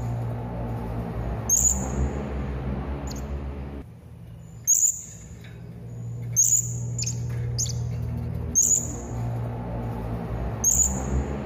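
Serindit (hanging parrot) giving short, sharp, very high-pitched calls, one every second or two, over a steady low hum.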